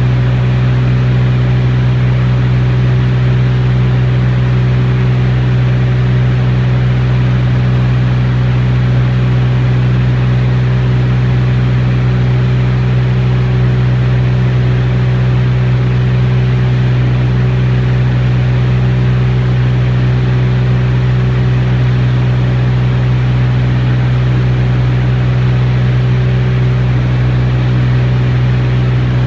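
T-34 Mentor aircraft engine droning loud and steady, with an unchanging low hum and no rise or fall in pitch throughout.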